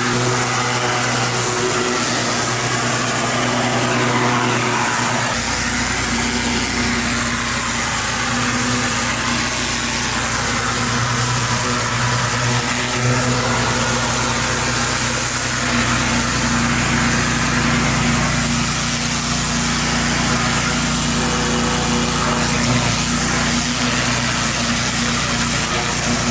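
Pressure washer engine running steadily, with the hiss of the high-pressure water spray; a deeper rumble joins about five seconds in.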